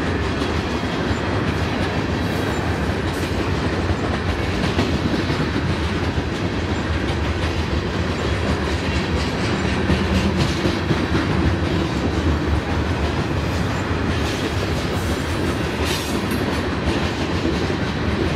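Loaded coal cars of a freight train rolling steadily past, wheels rumbling on the rails, with occasional clicks as they cross rail joints.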